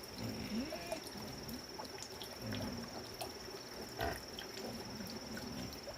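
Pigs grunting in short, low grunts, about three times, over a steady high-pitched whine, with a sharp click about four seconds in.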